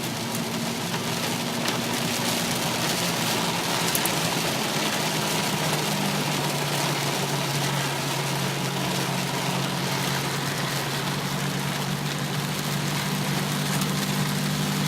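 Heavy rain and water noise heard from inside a moving car, with the engine's steady hum underneath.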